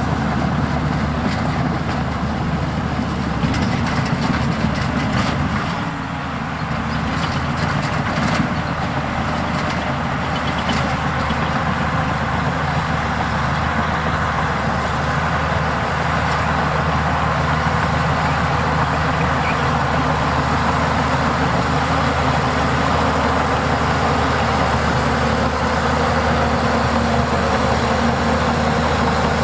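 Heavy diesel earthmoving machinery running steadily at a working engine note. A few knocks or clanks come in the first third.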